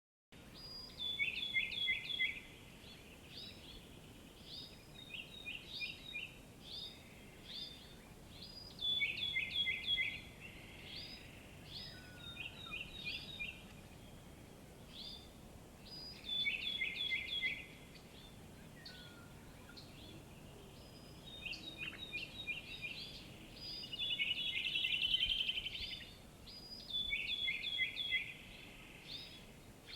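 Birds singing in a morning chorus. One bird repeats a short phrase of quick notes stepping down in pitch every several seconds, with other birds' chirps in between and a fast trill near the end.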